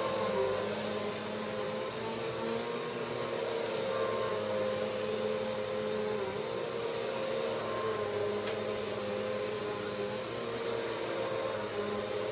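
Vacuum cleaner running steadily, a continuous motor drone with a high whine and a lower hum that wavers slightly in pitch.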